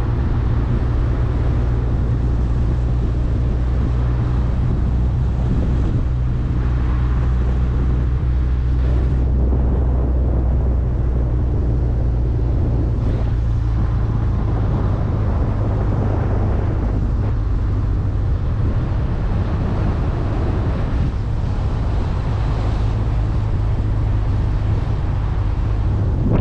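Steady low droning hum with an even rushing noise over it, like engine and road noise heard riding inside a vehicle.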